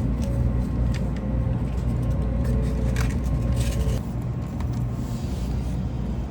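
Steady low rumble inside a moving Shinkansen bullet-train carriage, with a few light clicks and knocks.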